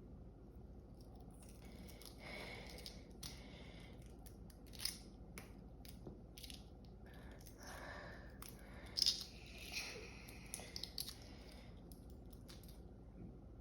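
Small crackles, clicks and scrapes from a hard-boiled egg being opened by hand, with the sharpest clicks a little past the middle.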